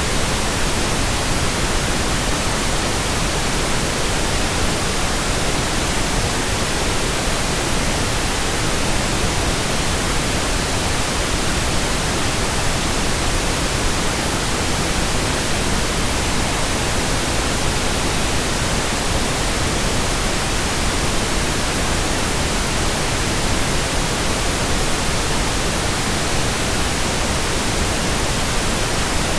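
Steady synthetic white noise: an even, unchanging hiss spread across all pitches.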